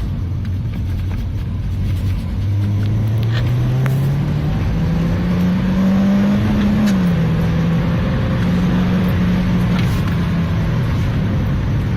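Peugeot 208 GTI's turbocharged four-cylinder, fitted with a TMSR2 induction kit, accelerating hard. The engine note climbs for about four seconds, drops suddenly at a gear change about halfway through, holds, then falls away as the throttle comes off near the end.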